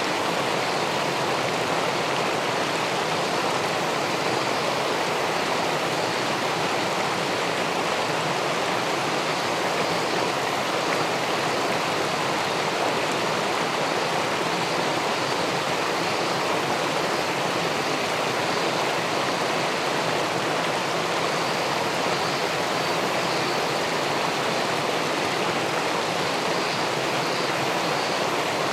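River water pouring over a weir and flowing through the pool below it: a steady, unbroken rushing.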